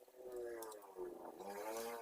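A drawn-out, voice-like pitched sound that wavers slightly, with a brief dip about a second in.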